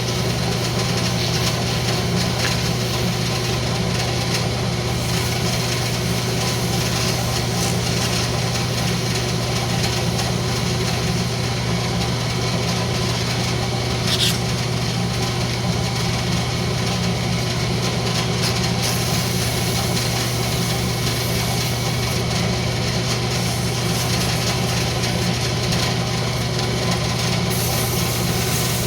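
Wood lathe running steadily with a constant motor hum while the rosewood pendant pull spins on it; a single short tick about halfway through.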